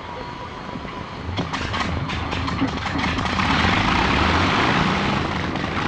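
Avro Lancaster bomber's piston engines running, the sound swelling to a loud, steady roar. A run of sharp pops and crackles comes between about one and a half and three seconds in.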